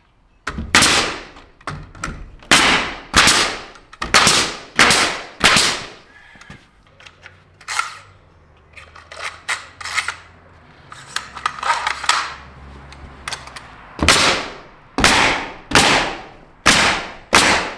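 Sharp strikes driving into wooden barn wall framing, in quick runs of about one and a half blows a second, with a few scattered blows between the runs. A faint steady low hum runs under the middle part.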